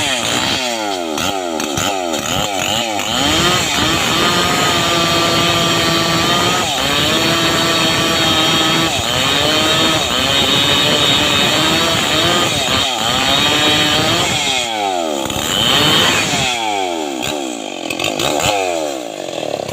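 Two-stroke chainsaw running, revved up and down several times in the first few seconds, then held at steady high revs for about ten seconds. It swings through a few more revs before easing off near the end.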